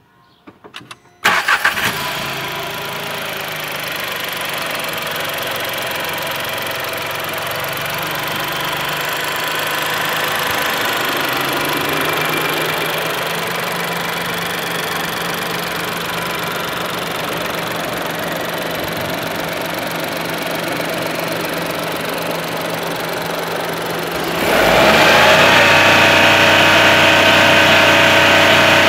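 2018 Skoda Rapid's 1.0 TSI three-cylinder turbo petrol engine (VW EA211) heard at the open engine bay: a brief crank, then it starts with a loud flare about a second in and settles to a steady idle. Near the end it is revved up and held at a steady higher speed.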